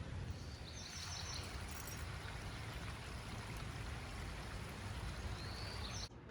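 Steady rain with rainwater running, an even wash of water noise.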